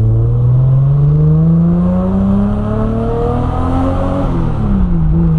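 Nissan Skyline R33 GTS-t's turbocharged RB25DET straight-six engine accelerating under load, its pitch rising steadily for about four seconds, then falling and levelling off near the end.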